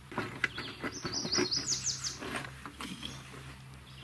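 A songbird sings a short, quick run of about six high down-slurred notes, over a scatter of sharp clicks and knocks.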